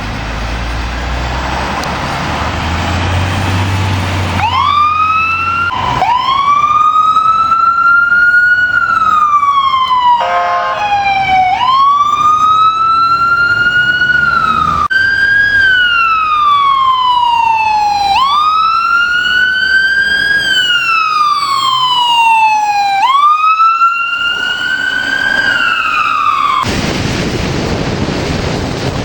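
An emergency vehicle's siren wails in slow rising-and-falling cycles, each a few seconds long. It briefly switches to a fast yelp partway through. Traffic and engine noise come before the wail and again near the end.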